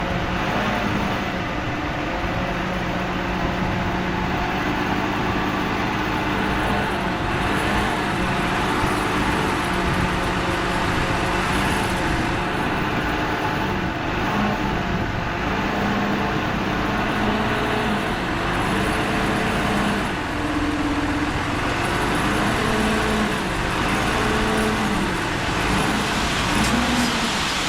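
Heavy diesel engine of earthmoving machinery running continuously, its pitch rising and falling as the load changes.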